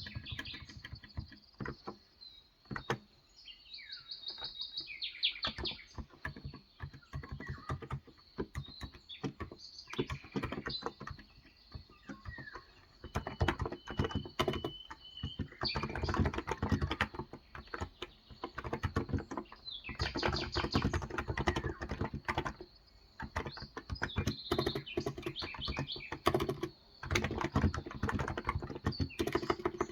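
Typing on a Cox Endeavour electrostatic-capacitive (contactless) 35 g tenkeyless keyboard, with scattered keystrokes that thicken into several spells of fast typing. Birds chirp in the background, with a short run of chirps a few seconds in and a thin whistled note about halfway through.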